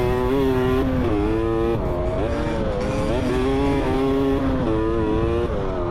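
Dirt bike engine running under riding load, its revs dropping and climbing again about once a second as the throttle is worked over uneven rock.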